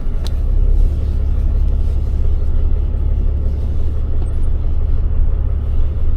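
Tow truck's engine running with a steady low rumble, heard from inside the cab, as the truck pulls slowly away with a U-Haul truck in tow.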